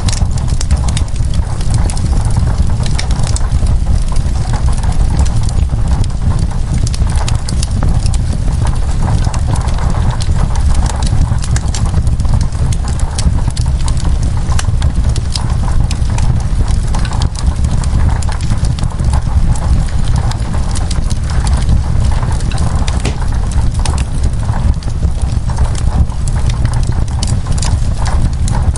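Wood fire crackling: a dense run of sharp pops and snaps over a steady low rumble.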